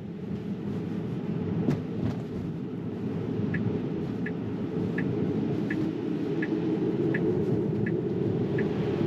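Steady in-cabin road and tyre rumble of a Tesla Model 3 driving on snowy streets, with a couple of sharp knocks about two seconds in. From about the middle on there are eight short, high, evenly spaced ticks, one every three-quarters of a second: the turn-signal indicator.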